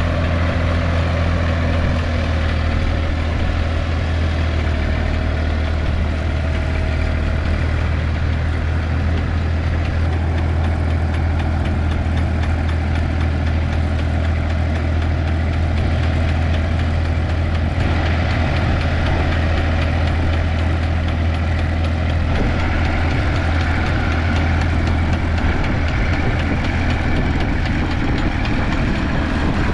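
An engine running steadily at a low, even drone.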